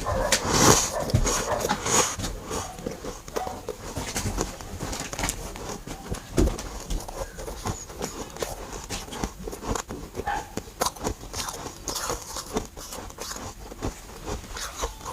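Freezer frost chunks being bitten and chewed close to the microphone: a dense run of sharp, squeaky crunches.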